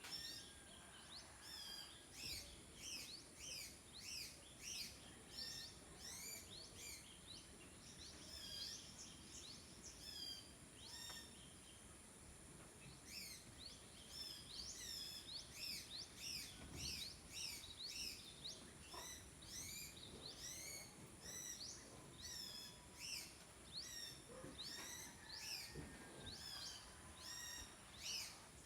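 Small birds chirping, many short sharp chirps overlapping one another, faint, with a brief lull about twelve seconds in.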